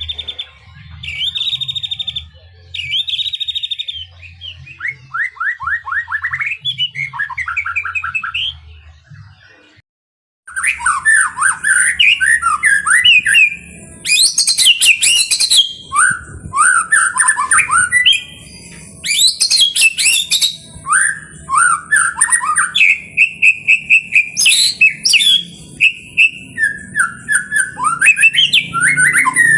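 White-rumped shama (murai batu) singing a long, varied song of clear repeated notes, whistles and fast rattling trills. The song breaks off briefly about ten seconds in, then resumes louder and denser.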